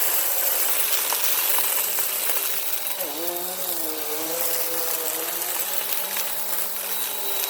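Bissell Power Force Compact upright vacuum running, with sand and grit rattling and clicking as they are sucked up. About three seconds in, the motor's hum drops in pitch and wavers as it takes on load.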